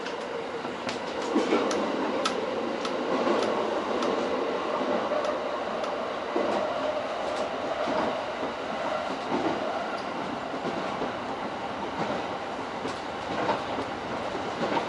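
E231 series electric commuter train running between stations, heard from inside the lead car: steady running and wheel-on-rail noise with a steady hum and a scatter of sharp clicks, most of them in the first few seconds.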